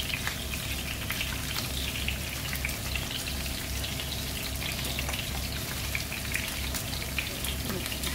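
Hot oil sizzling and crackling as diced red onion sautés in a stainless steel pot, alongside chicken pieces frying in a pan; a steady sizzle with many fine crackles.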